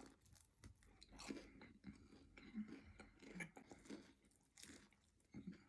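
Faint, close chewing and crunching of crispy fried chicken: a run of small irregular crunches as the mouthful is bitten and chewed.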